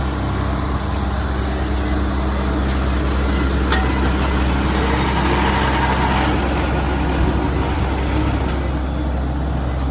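Heavy diesel engine running steadily at a low, even pitch, with a single sharp click a little under four seconds in.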